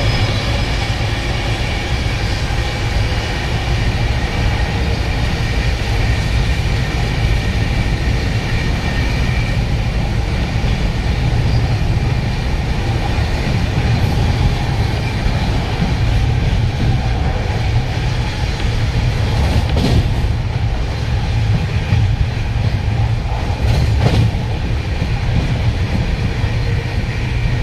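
Passenger train running along the track, heard from a sleeper-class coach: a steady, loud rumble and rushing noise of wheels on rails, with a few faint clicks here and there.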